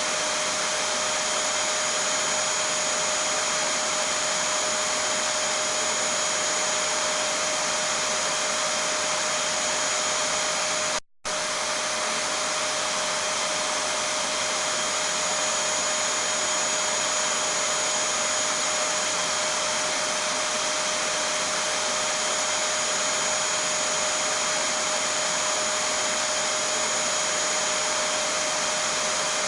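Vacuum cleaner running continuously at a constant pitch, a steady rushing hiss with a whine on top. The sound drops out for a split second about eleven seconds in, then carries on unchanged.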